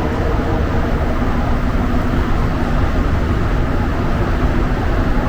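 Montreal metro train running between stations, heard from inside the car: a steady loud rumble of the rubber-tyred train with a faint even hum.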